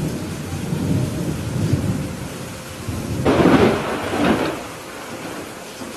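Thunder rumbling low over steady rain, building to a louder, sharper clap about three seconds in that then fades back into the rain.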